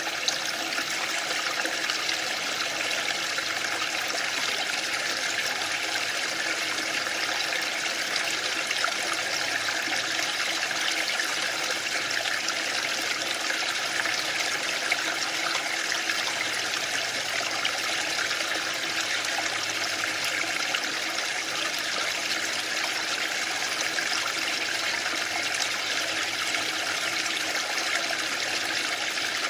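Waterfall: falling water making a steady, even noise with no let-up and no rise and fall.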